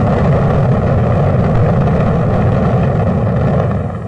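Saturn V rocket's five F-1 first-stage engines at liftoff: a loud, steady, deep rumble that fades out near the end.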